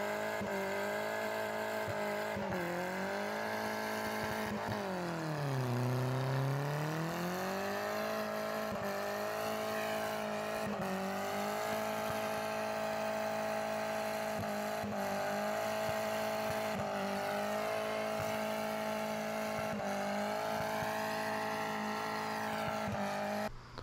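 Turbocharged 1.6-litre four-cylinder of a 2005 Hyundai Accent revved high and held during a burnout, its note steady and even, dipping once and climbing back about six seconds in.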